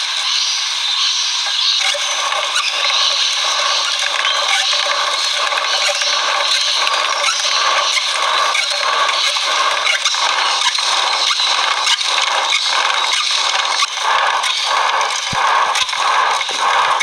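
Rhythmic scraping over a steady hiss, with regular strokes about twice a second from about two seconds in.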